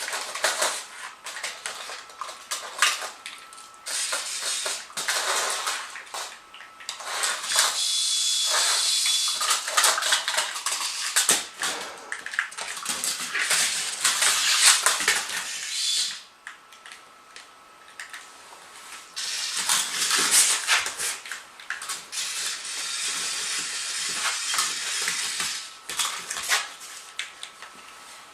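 A smooth fox terrier scuffling at a remote-controlled toy spider: long stretches of busy clicking, scrabbling and clattering, broken by a lull of a few seconds about halfway through.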